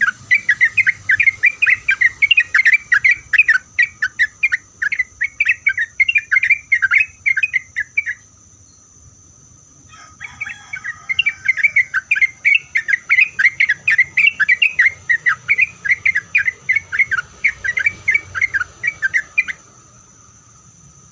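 Yellow-vented bulbul singing a fast run of repeated chattering notes, about four or five a second. It pauses for about two seconds around a third of the way in, resumes, and stops shortly before the end. A steady high-pitched hum, like an insect, runs underneath.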